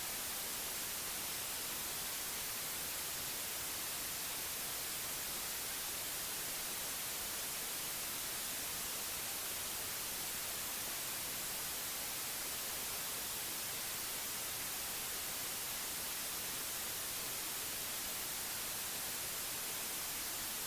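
Continuous white noise: an even, unchanging hiss, brightest in the high pitches.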